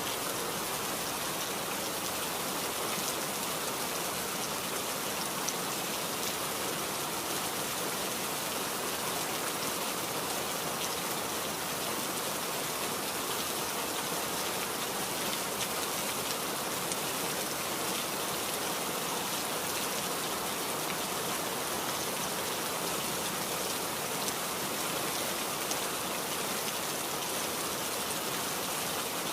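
Steady rain falling, a dense even hiss with many small drop impacts on surfaces.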